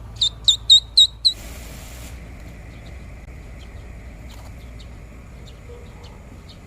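A blade of grass blown as a bird call gives five loud, high, squeaky chirps in quick succession, about four a second, imitating a baby bird or chick. A short breathy rush follows, then only a low background with faint small chirps.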